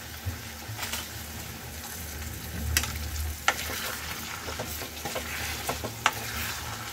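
Marinated chicken pieces frying with onions and whole spices in a kadai: a steady sizzle as a spatula stirs and turns the meat, with a few sharp clicks of the spatula against the pan. This is the start of browning the freshly added raw chicken.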